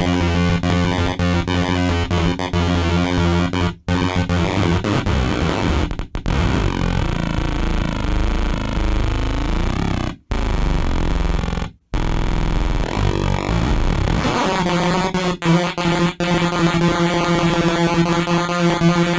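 Circuit-bent Sound Bites sample toy played through a Roland Spirit 10A amplifier: glitched, buzzing looped samples mangled by the pitch knob, with pitch sweeps in the middle and a few abrupt cut-outs. It settles into a steady droning loop near the end.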